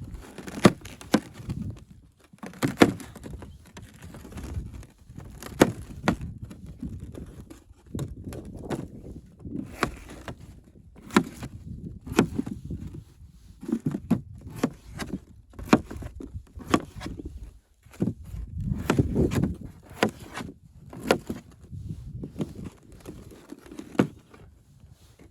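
Irregular sharp knocks and clatter, about one a second, with low thuds under them, like gear or wood being handled.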